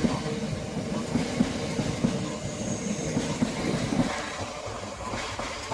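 Class 375 Electrostar electric multiple unit running past, its wheels knocking over rail joints, the rumble fading away about four seconds in.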